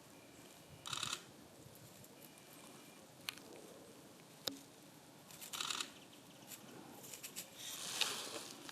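Dry grass and leaf litter rustling as black-faced buntings forage on the ground. It comes in short bursts about a second in and again past the middle, then a longer stretch near the end, with two sharp ticks in between.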